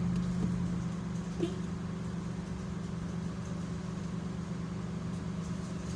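Steady hum of a car idling, heard from inside the stationary car's cabin, with one small knock about a second and a half in.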